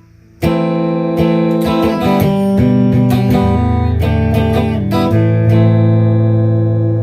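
Gretsch G2622T Streamliner semi-hollow electric guitar being played: a chord struck about half a second in, then a run of chords and picked notes that ring on, with a low note held through the last couple of seconds.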